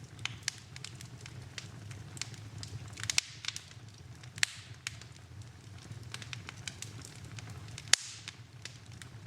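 Wood fire in a fireplace crackling, with irregular sharp pops over a steady low rumble of flame; the loudest pops come about three, four and a half, and eight seconds in.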